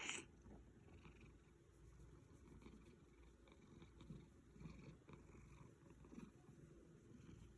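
A domestic cat purring quietly in a slow, even rhythm.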